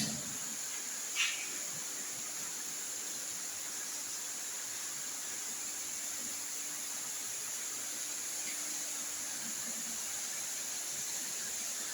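Steady even hiss with a faint low hum from HVAC chiller plant machinery running, broken only by a short click at the start and a brief scraping sound about a second in.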